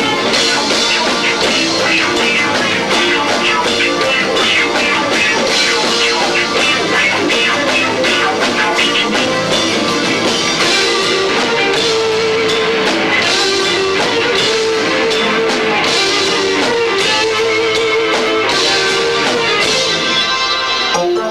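Live rock band playing with guitar and two drum kits, loud and distorted through a camcorder's built-in microphone.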